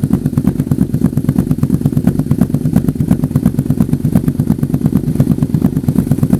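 Yamaha V-Max V4 engine running at a steady low speed through its exhaust, with a loud, even, pulsing beat that neither rises nor falls.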